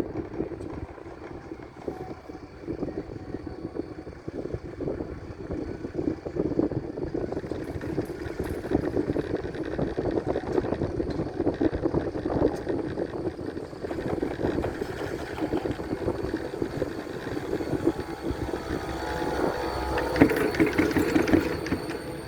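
Four-seater chairlift running: a steady mechanical rumble with dense rattling, joined by a faint high whine and growing louder toward the end.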